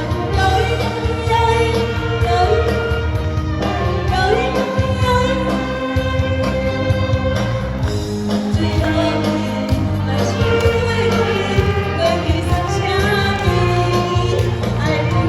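A Taiwanese Hokkien pop song sung over backing music, a voice carrying the melody above a steady bass accompaniment.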